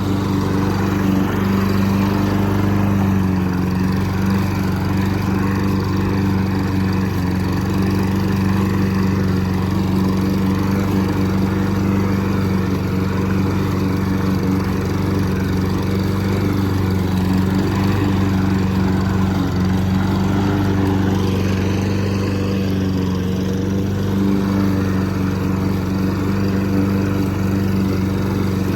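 Lawn mower engine running steadily under load while cutting tall, thick grass, its hum holding a nearly even pitch with slight wavers.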